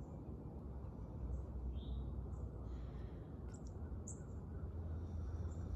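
Small songbirds chirping now and then in short high calls, over a steady low background rumble.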